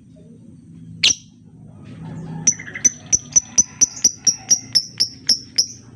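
Lovebird calling: one sharp shrill call about a second in, then a fast run of about a dozen sharp, high chirps at roughly four a second, lasting about three seconds.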